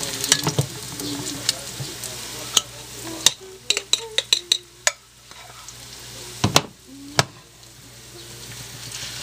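Tuna burger patties frying in hot oil in a stainless steel skillet: a steady sizzle with scattered sharp clicks and a couple of louder knocks, as spoonfuls of the mixture are dropped into the pan. The sizzle dies down about halfway through and picks up again near the end as another patty goes in.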